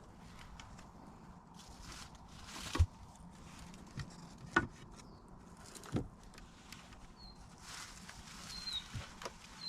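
Scattered sharp knocks and rustling, with a few short high chirps near the end.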